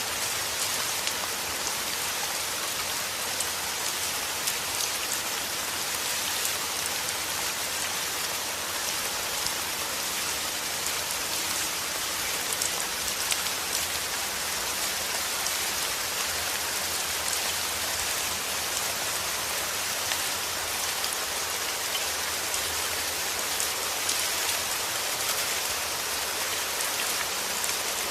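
Steady rain falling, an even hiss of drops with scattered finer patters and no thunder.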